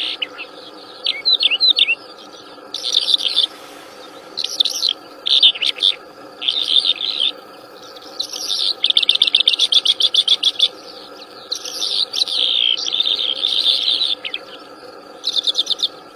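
Wild songbirds singing in repeated bursts of rapid chirping trills and warbles, each phrase lasting from half a second to about two seconds with short gaps, over a faint steady drone.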